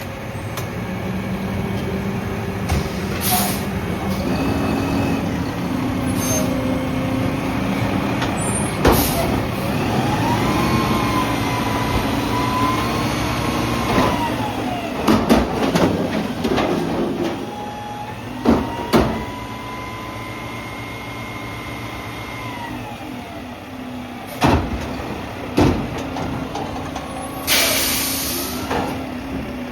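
Mack MRU garbage truck with a McNeilus front-loader body: the engine revs up and falls back twice to drive the hydraulics, with metal bangs and clanks as a commercial dumpster is lifted and emptied. A burst of air-brake hiss comes near the end.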